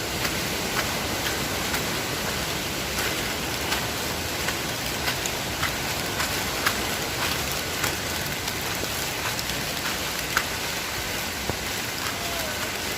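Steady rain, an even rushing hiss with sharp drop ticks landing irregularly close to the phone's microphone.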